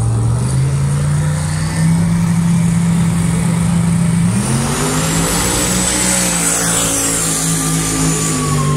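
Drag-racing car engine at hard throttle on the strip, its pitch climbing at the start and rising again about four seconds in, then holding high revs.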